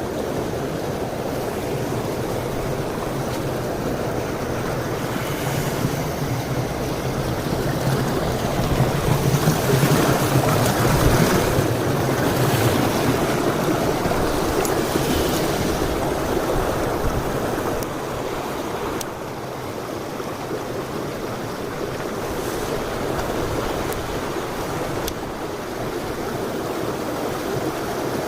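A mountain stream rushing over rocks, a steady noise of flowing water that swells a little louder around the middle.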